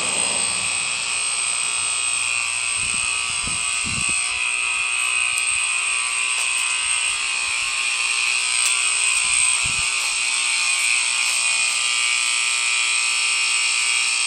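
Alarm going off at a water tower station, a steady, high-pitched electronic buzz that doesn't change, the most annoying noise ever. A few low thumps sound in the first ten seconds.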